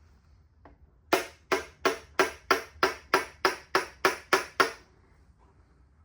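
A quick run of eleven sharp, evenly spaced knocks, about three a second, starting about a second in and stopping just before the five-second mark.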